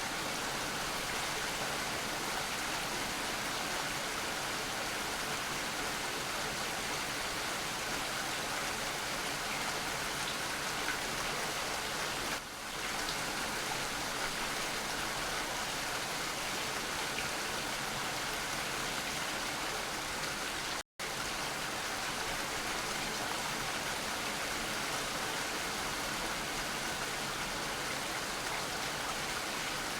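Steady, even rain falling, a constant hiss of drops with no single drops standing out. It dips briefly about twelve seconds in and cuts out completely for a split second about two-thirds of the way through.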